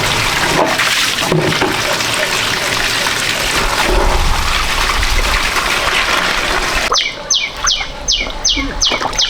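Water splashing and sloshing for about seven seconds. Then a quick run of short, high chirps that fall in pitch starts up, about three a second.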